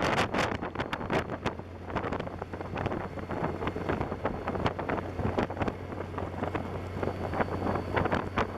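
Wind buffeting the microphone of a camera on a moving motorcycle, crackling in frequent gusts, over a steady low motorcycle engine drone.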